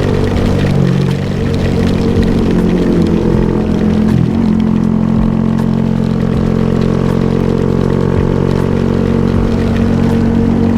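Honda Grom motorcycle engine running under way, rising in pitch over the first few seconds as it accelerates, then holding a steady pitch, over a constant hiss.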